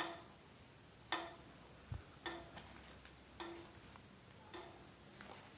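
Faint, regular ticking, about one tick a second, each tick carrying a short low tone.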